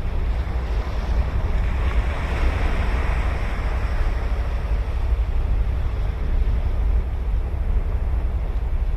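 Ocean waves breaking and washing up the beach, one wash swelling about two to three seconds in and then fading. A steady low rumble of wind on the microphone runs underneath.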